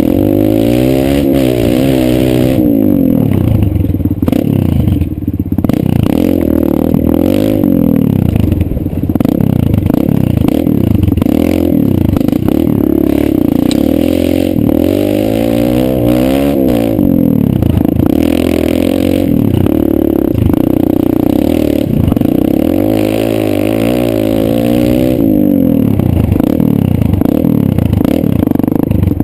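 Kawasaki KLX140 dirt bike's single-cylinder four-stroke engine being ridden, revving up and falling back again and again, its pitch rising and dropping every few seconds.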